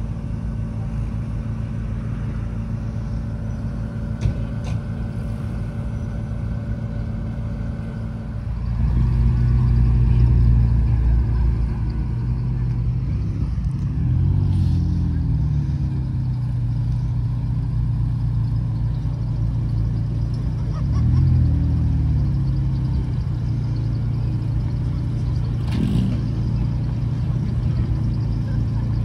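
Chevrolet Camaro's engine running while driving, getting louder as the car accelerates about a third of the way in, then the engine note rising and falling twice.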